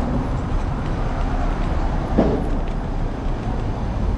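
Steady low rumble of wind on a handlebar-mounted action camera's microphone, mixed with city street traffic, during an electric scooter ride. A short, louder sound comes about two seconds in.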